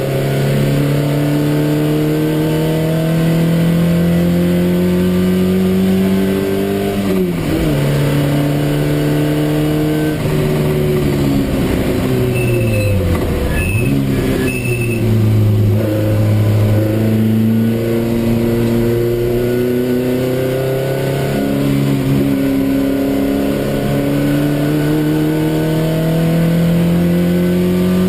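TVR Vixen race car's engine heard from inside the cockpit, revs climbing steadily as it pulls through the gears. The revs drop sharply about seven seconds in, fall away through the middle as the car slows, then climb again as it accelerates out.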